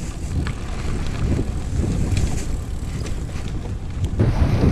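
Wind buffeting a GoPro's microphone over the rumble of a bicycle riding along a rough cycle path, with a few light ticks and rattles. The noise gets louder about four seconds in.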